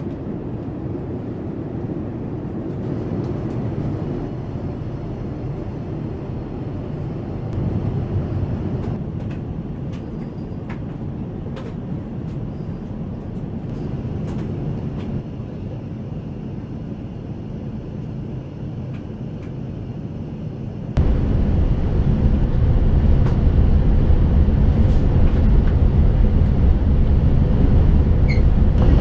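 Steady rumble of engine and airflow noise inside the Airbus A380 cabin in flight. About 21 seconds in it suddenly becomes louder and deeper and stays that way.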